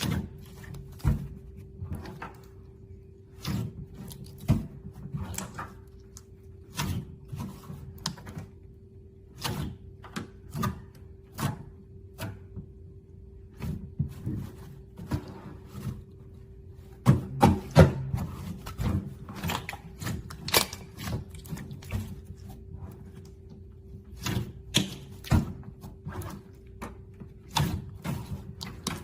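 Clear slime being mixed and squished by hand, giving irregular sticky pops and clicks several times a second, a little louder about two thirds of the way through, over a faint steady hum.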